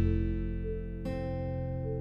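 Acoustic guitar music playing slow, ringing chords, with a new chord struck about a second in.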